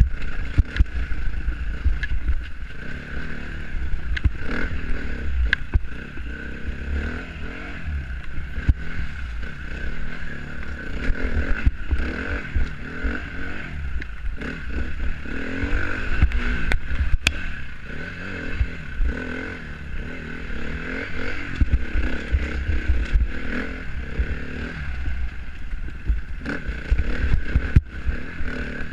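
Dirt bike engine ridden round an enduro loop, its pitch rising and falling as the throttle opens and closes, over a heavy low rumble with scattered knocks and rattles.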